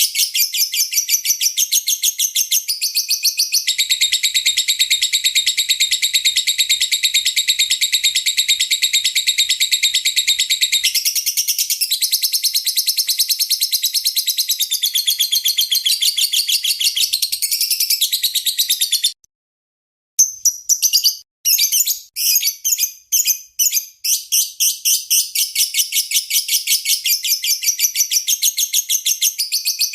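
Lovebird giving a long, rapid chattering trill of high, harsh repeated notes: the 'ngekek panjang' long trill that Indonesian keepers train their birds to copy. It breaks off for about a second near the middle, comes back in short choppy bursts, then runs on continuously again.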